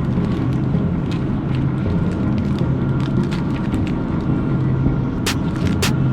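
Steady low hum of supermarket background machinery, with two sharp clicks near the end.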